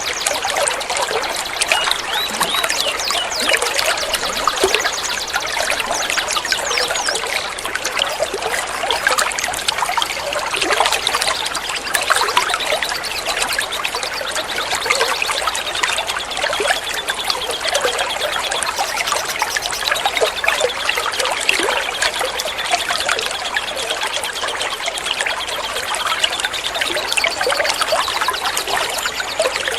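Water trickling and flowing steadily, with many small birds chirping and twittering over it throughout.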